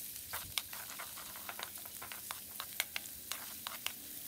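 Minced garlic and crushed Chinese celery roots frying in hot oil in a wok, stirred with a wooden spoon. There is a steady soft sizzle with frequent small sharp crackles of spattering oil.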